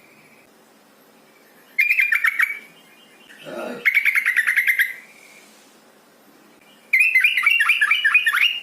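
Yellow-vented bulbul calling: three bursts of fast chattering notes, each about a second long, with a short lower falling note before the second burst. The uploader presents it as a female calling to a male.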